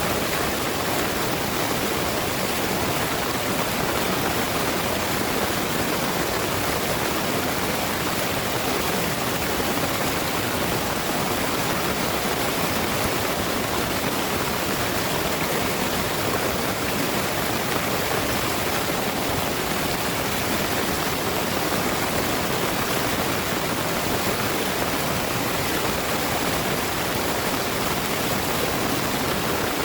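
Heavy rain pouring steadily, a dense, even hiss with no breaks or changes.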